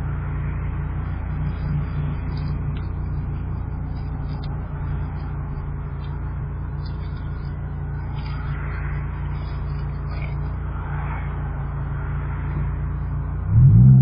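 Dodge Viper's V10 engine idling steadily at a standstill, heard from inside the car. About half a second before the end a much louder low tone cuts in suddenly, rising in pitch.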